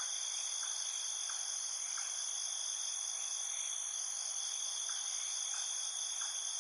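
Steady high-pitched insect chorus of several unbroken shrill tones, with faint short chirps repeating about every two-thirds of a second.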